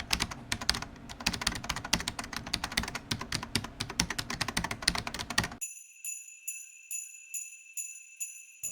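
Rapid, dense clicking like typing on a keyboard for about five and a half seconds, then it stops and high bell-like ringing tones pulse about twice a second, with nothing low underneath, like an intro sound effect.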